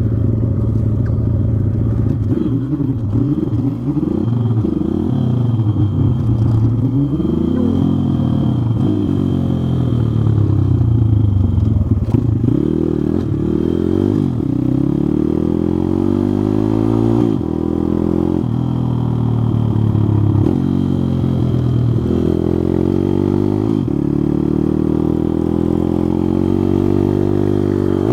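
Pit bike engine being ridden, its pitch climbing as it revs up and then falling back many times over, heard close from the rider's position.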